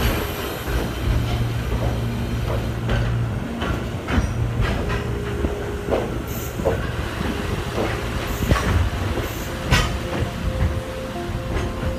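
Old locomotive-hauled passenger coach rolling slowly through a station, heard from its open window: a low rumble of the running gear with irregular clacks and knocks from the wheels over rail joints, and brief squeals.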